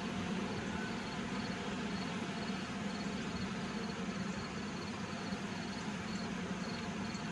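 Honey bees from an open hive humming steadily, with faint short high chirps repeating in the background.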